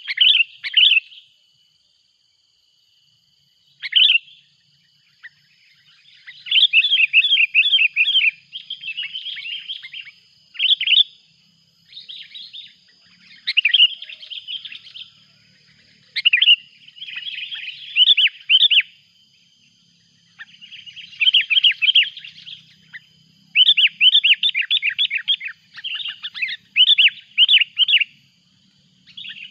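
Sooty-headed bulbul (kutilang) calling noisily: bursts of quick, chattering notes, repeated again and again with short pauses. A faint steady high tone runs underneath from about six seconds in.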